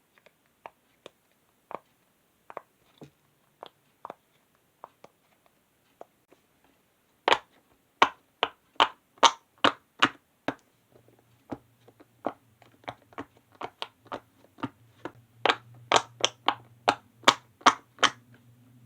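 Silicone pop-it fidget toy bubbles pressed one after another, each a short pop. A few scattered soft pops come first, then from about seven seconds in louder, quicker pops at roughly three a second.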